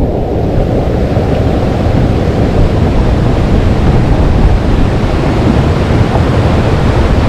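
Waterfall's loud, steady rush of falling water, heaviest in the low end, growing brighter over the first second or so.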